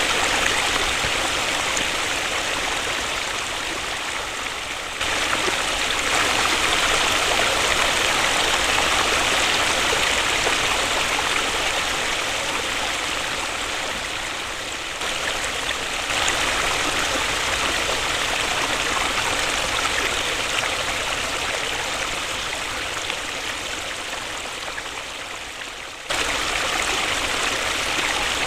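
Waterfall: a steady rush of falling water. The level slowly sinks and then jumps back up abruptly three times, as if the recording were spliced.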